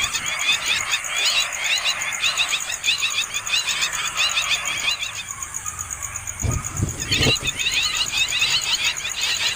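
Nestling birds begging with rapid, repeated high chirps, several a second. The chirping pauses briefly past the middle while a few low thumps sound, then starts again.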